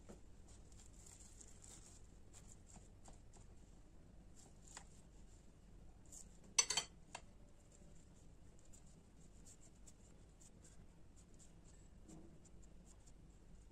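Faint scraping and light clicks of handling, with one brief, louder clatter about six and a half seconds in.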